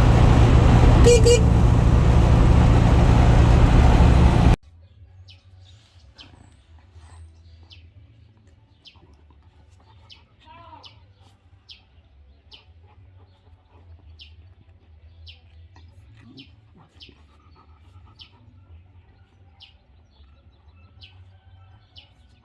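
Fiat 500's air-cooled two-cylinder engine running loudly, then cutting off abruptly about four and a half seconds in. After that a bird chirps, short high chirps roughly once a second, over a low steady hum.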